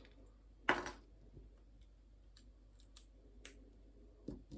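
Small plastic Lego pieces clicking as they are handled: one sharper click just under a second in, then a few light ticks.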